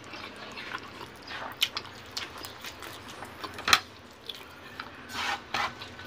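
A person eating braised chicken humba with his hands: wet chewing and scattered lip-smacking clicks. The loudest is one sharp smack a little after halfway through.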